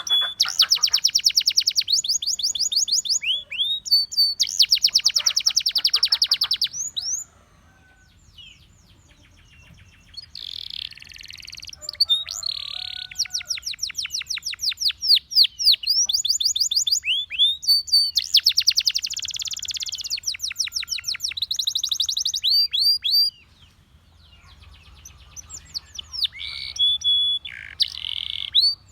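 Russian singing canary in full song: long runs of very fast trills broken by rising and falling whistled notes, with two short pauses, about a quarter of the way in and again near the end.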